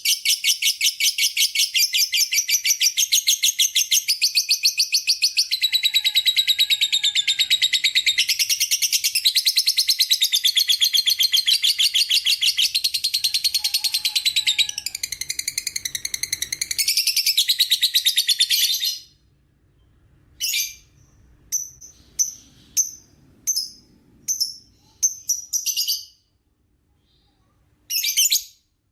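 Lovebird giving its long 'ngekek' song: a shrill, rapid, unbroken chattering trill that runs for about nineteen seconds, then breaks up into short separate chirps.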